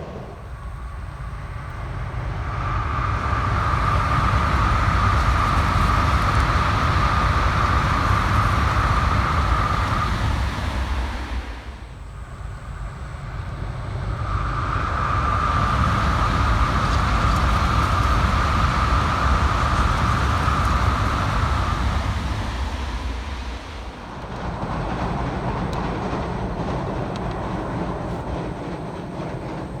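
N700S Shinkansen bullet train running at high speed, a heavy rushing and rumbling noise that swells and fades in waves, three times. A steady high whine rides on top during the two loudest stretches.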